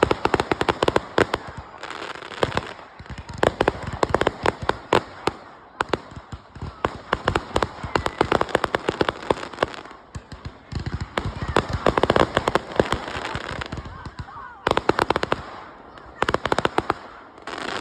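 Fireworks display going off: repeated volleys of rapid, sharp bangs and crackles, each volley lasting about a second and coming every couple of seconds.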